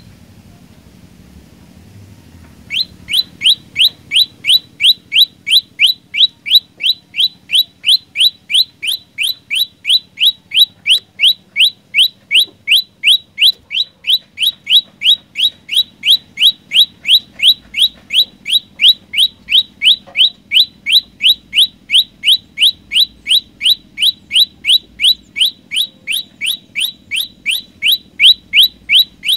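Prenjak lumut songbird calling. After a short pause it gives one short upward-sweeping note over and over, about two or three a second, without a break.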